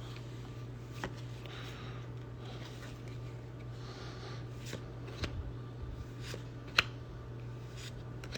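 Trading cards being handled and slid through the hands, soft rustles and light clicks, with one sharp card snap or tap about seven seconds in, over a steady low hum.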